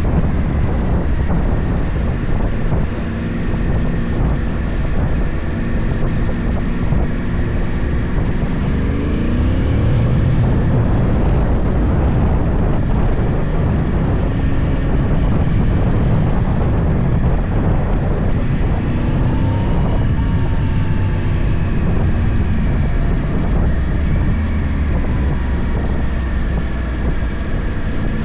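Yamaha YZF-R1 crossplane inline-four through a full Akrapovic exhaust, running under way with steady engine note, the revs climbing about nine seconds in and again around twenty seconds in.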